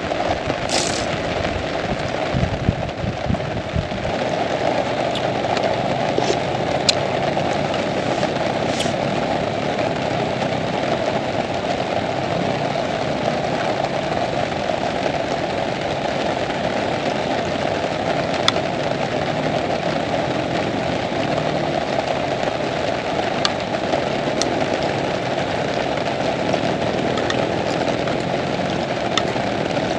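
Heavy rain falling steadily, with scattered sharper drop hits now and then.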